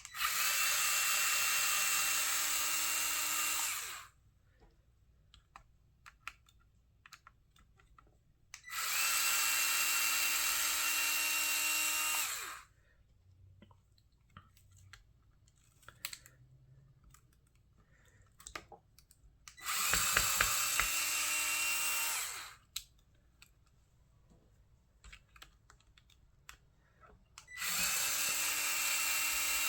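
A small electric screwdriver backing out four screws, one after another. Each screw gets a steady whining run of about three to four seconds, with light clicks of handling between the runs.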